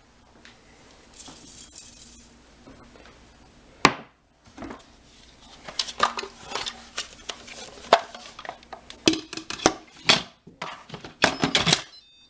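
Metal cookware and utensils clinking and clattering: one sharp knock about four seconds in, then a busy run of clinks and rattles that thickens near the end.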